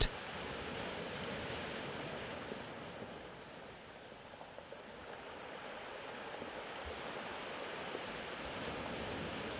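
Ocean surf as a soft, steady wash of waves. It eases a little around the middle and swells again toward the end.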